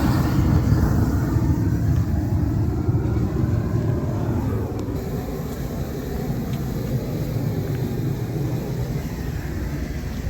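A steady low rumble that gradually eases over the first few seconds and then holds.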